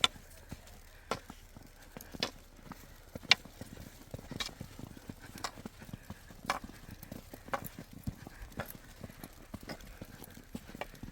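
Slow footsteps crunching in snow, one sharp step about every second at an even pace.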